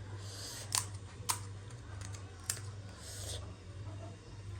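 Pani puri being eaten close to the microphone: a few sharp crunches of the crisp shells, about a second apart, with crackly chewing noise between them. A steady low hum runs underneath.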